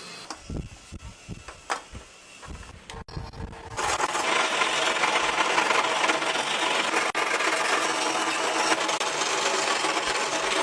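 A few irregular knocks, then about four seconds in a loud, steady rasping tool noise starts abruptly, a tool working on a fridge compressor.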